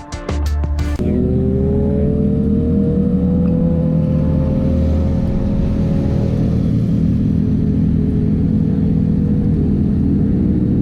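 A motorcycle engine running under way, its pitch rising slowly over several seconds as it accelerates, then holding steady. Music cuts off about a second in.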